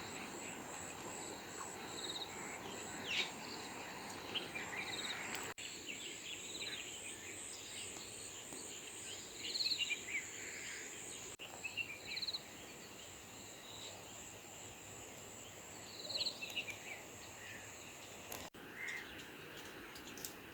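Outdoor rural ambience: insects trill steadily at a high pitch, with short bird chirps scattered over it.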